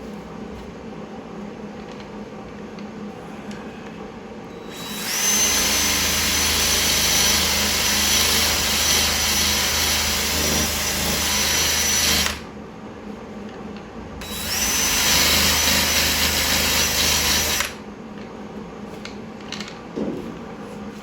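Power grinder grinding down fresh weld beads on sheet-metal body panels, in two runs: a long one of about seven seconds and a shorter one of about three, each starting with a rising whine as the disc spins up and then holding steady.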